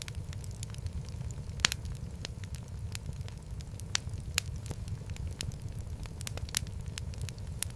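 Wood fire burning in a fireplace: a steady low rumble of flames with irregular sharp crackles and pops, the loudest pop about a second and a half in.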